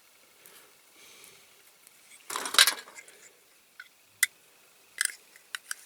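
Small clicks and a short burst of scraping from a tool and a plastic light insert being worked out of a diecast model truck cab. The loudest scrape comes about halfway through, followed by a few single sharp clicks.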